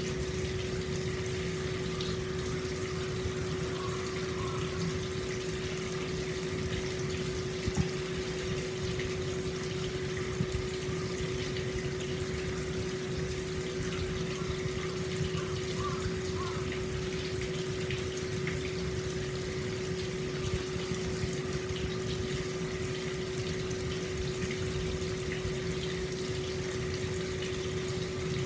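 Hot spring water flowing steadily out into an open-air stone bath, a continuous pouring and splashing. A steady hum runs underneath.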